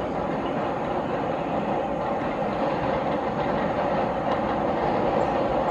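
Rajdhani Express passenger train running along the line: a steady rumble of wheels on rails that grows slowly louder.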